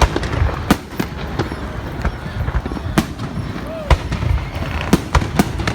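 Fireworks going off: about six sharp bangs at irregular intervals, over a continuous low rumble of further bursts.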